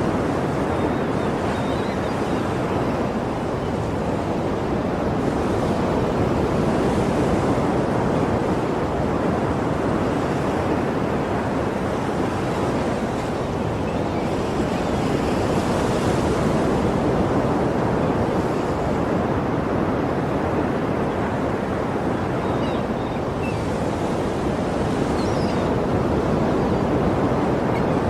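Sea waves washing onto the shore: a continuous rush of surf with slight swells every several seconds.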